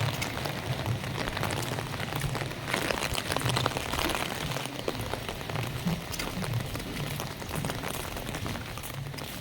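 Heavy monsoon rain pouring down, a steady hiss of rain thick with small drop ticks and splashes.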